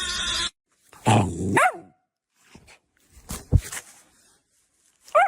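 A dog making short barks and growls: two loud calls falling in pitch about a second in, softer sounds in the middle, and one more short call near the end. A burst of hiss-like noise cuts off about half a second in.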